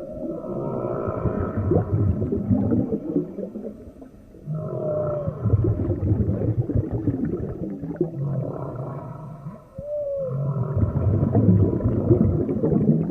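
Underwater whale-like calls: low moans and groans with a short rising-then-falling whoop about every five seconds.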